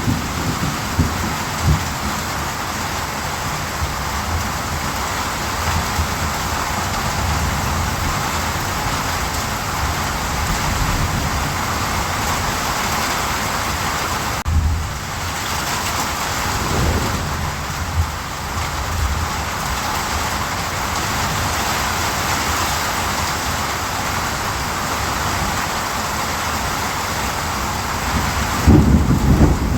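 Steady heavy rain with low rumbles of thunder: a few just after the start, more around the middle, and a louder roll near the end.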